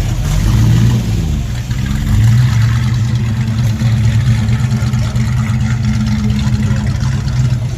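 A car engine running close by: a brief rev that rises and falls about a second in, then a steady idle.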